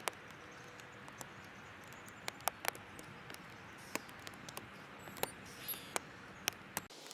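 Birds pecking at seed on a feeder: scattered, irregular sharp taps and clicks over a steady hiss. The background hiss changes abruptly near the end.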